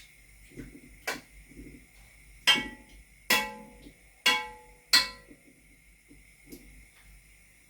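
Metal cookware clanking: five sharp knocks, each with a short metallic ring, as a pot and its utensils or lid are handled on the stove.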